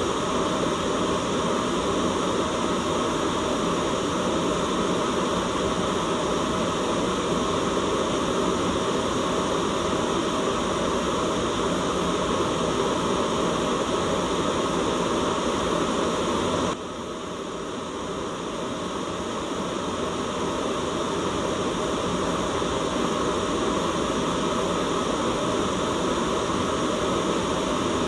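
Steady white-noise hiss with no rhythm or tone in it; about two-thirds of the way through it drops suddenly in level, then slowly swells back up.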